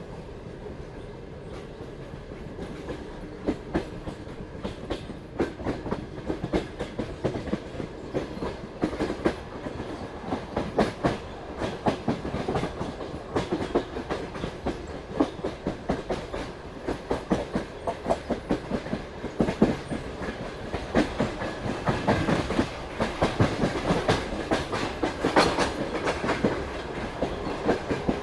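Passenger-train wheels clicking over rail joints and points, the clatter getting louder and quicker as the train picks up speed, over a steady rolling rumble.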